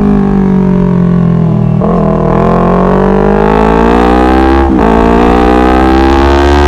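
Honda CBR250RR motorcycle engine pulling hard under acceleration, its pitch climbing steadily. It drops briefly at gear changes about two seconds in and near five seconds, then rises again.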